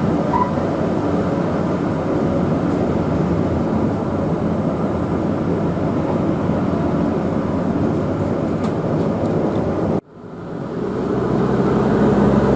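Queensland Rail 2000 class diesel rail motor running along the track, a steady drone of engine and wheels. About ten seconds in the sound cuts out abruptly and then fades back up.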